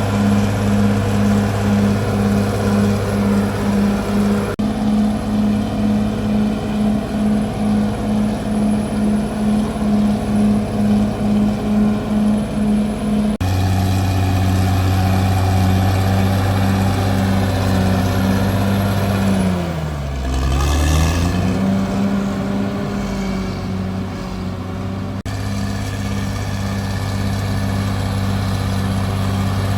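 Caterpillar D6R bulldozer's diesel engine running, with a regular pulsing beat through the first part. About twenty seconds in, the engine speed sags sharply and recovers, as it does under heavy load. The sound jumps abruptly a few times.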